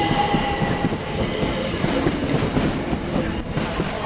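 Electric multiple-unit train running along the platform, its wheels clattering over the rail joints, with a steady whine that fades out about a second in.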